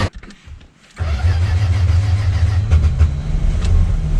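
A 1978 Plymouth Volare's slant-six engine, quiet for about a second, then catching and running with a steady low rumble. The engine has a bottom-end knock after years of sitting.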